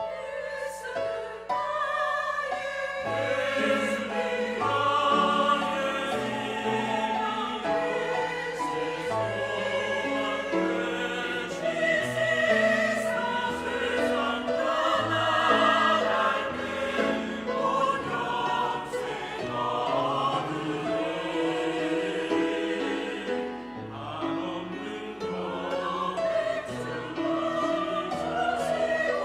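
Church choir singing a hymn in full voice, over low sustained accompaniment notes. The choir comes in loudly right at the start, after a quiet piano passage.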